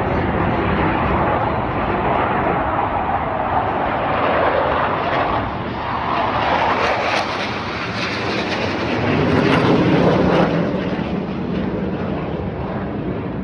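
T-50B jet aircraft flying past with the roar of their jet engines. The sound sweeps in pitch as they pass and swells to its loudest about ten seconds in.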